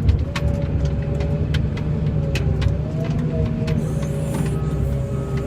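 Diesel engine of a snow-plowing loader running steadily under load, heard from inside the cab, with scattered sharp knocks and clicks from the plow working over rough, icy ground.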